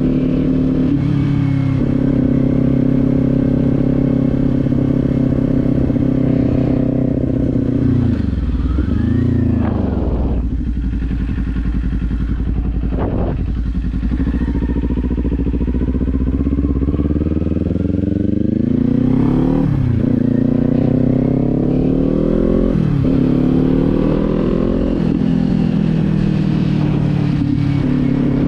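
Kawasaki Z400's parallel-twin engine running under a rider on the road. It holds steady revs at first, dips and picks up again about nine seconds in, then shows two quick drops in revs around twenty and twenty-three seconds in, as with gear changes, before climbing steadily as the bike accelerates.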